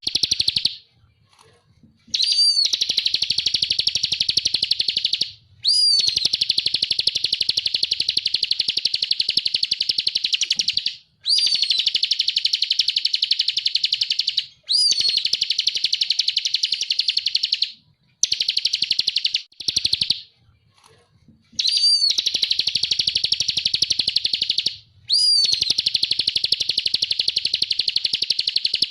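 Ciblek (bar-winged prinia) singing its long, rapid, buzzing 'ngebren' trill. The song comes in runs of three to five seconds, each opening with a quick slurred note, with short pauses between runs.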